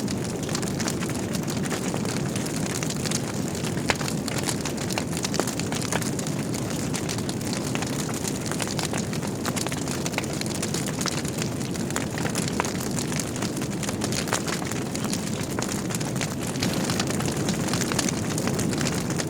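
Logs burning in a wood fireplace: a steady low rush of flames with frequent small crackles and pops, one sharper pop about four seconds in.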